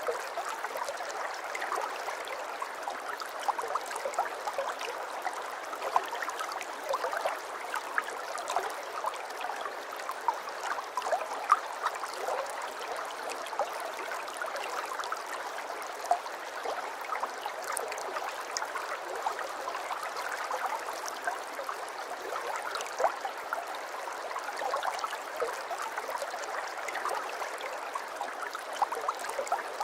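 Aquarium water trickling and bubbling steadily, with many small pops throughout.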